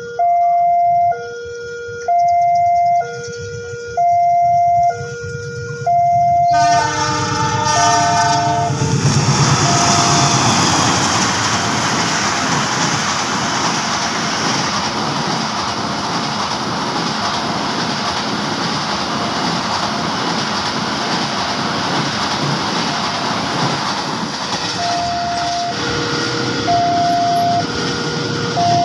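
Two-tone electronic warning alarm, such as an Indonesian level-crossing signal, alternating high and low about once a second. About six seconds in, a passing locomotive horn sounds, dropping in pitch. The loud, steady rumble of the Tegal Ekspres passenger train running past follows and lasts about fifteen seconds, and the two-tone alarm is heard again near the end.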